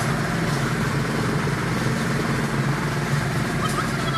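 Steady rumble and hiss of a train running, heard from inside the passenger coach.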